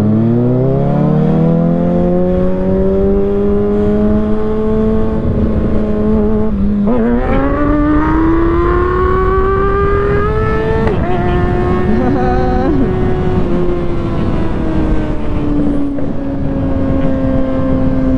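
Kawasaki Ninja ZX-6R inline-four engine pulling through the gears under way. Its pitch climbs, drops at a gear change about seven seconds in, climbs again, and drops at another shift near eleven seconds. It then holds about steady while cruising, with wind rushing over the microphone throughout.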